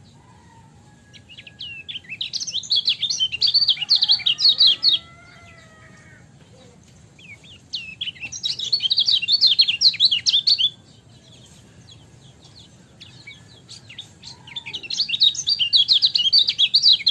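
Kecial kuning white-eye singing: three bouts of rapid, high chattering chirps, each lasting about three seconds, with short pauses between them.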